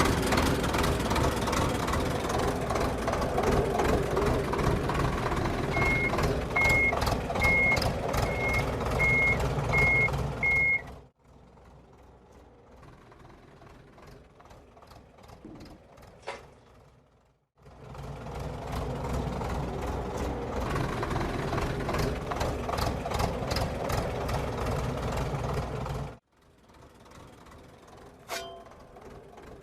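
Tractor engine running, with a reversing beeper giving about seven short high beeps over the last part of the first spell. The engine sound cuts off suddenly, comes back for about eight seconds, then cuts off again.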